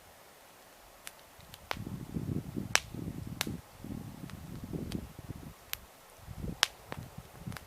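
Wood campfire crackling, with sharp irregular pops, over a low uneven rumble that comes and goes in two stretches.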